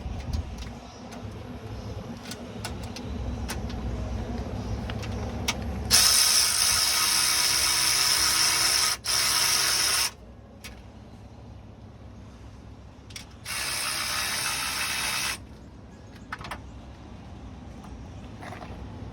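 Two loud bursts of mechanical hissing, the first about four seconds long with a brief break, the second about two seconds long, over a low rumble and a few scattered clicks.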